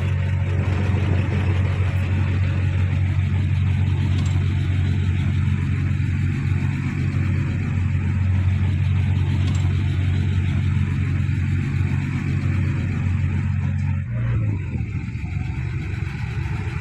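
Heavy earthmoving machine's diesel engine running steadily with a deep, even drone; about fourteen seconds in, the note drops and the engine settles lower.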